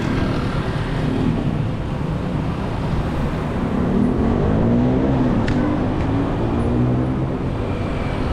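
Road traffic running steadily, with a motor vehicle's engine passing close, its pitch rising and falling through the middle and latter part.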